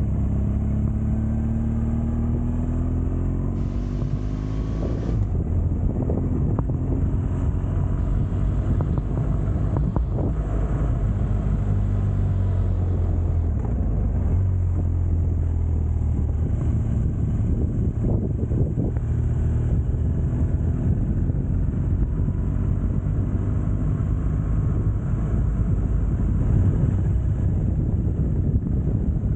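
Motorcycle engine running under way, its note rising in the first few seconds and shifting with speed, over road rumble and wind noise on the microphone.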